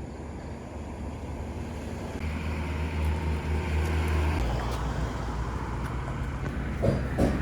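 Steady low rumble and road noise of a moving vehicle, slowly growing louder.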